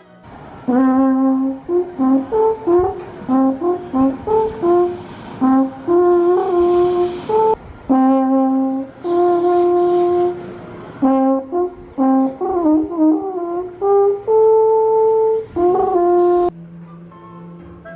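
A solo brass instrument with a horn-like tone playing a slow melody, mixing held notes with quick runs, in phrases with short breaks between them.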